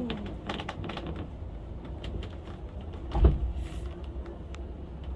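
Cable-hauled funicular railway car running on its track, a steady low rumble with scattered clicks and one louder thump about three seconds in.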